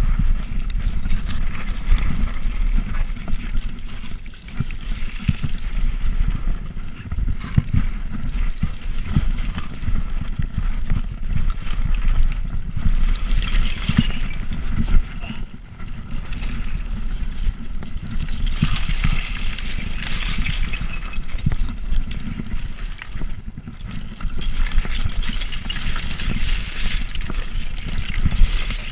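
Wind buffeting the microphone of a moving bicycle rider, a heavy uneven rumble, with a rushing hiss of air and tyres that swells and fades several times.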